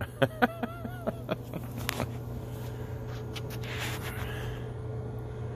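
Clothes dryer exhaust blowing out through the wall vent: a steady hum and rush of air. Several sharp clicks and short chirps come in the first second or so.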